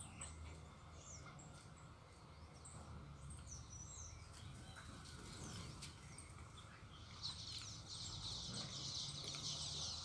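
Small birds at a garden feeder giving short, faint chirps and calls. About seven seconds in, a louder, dense high-pitched sound sets in.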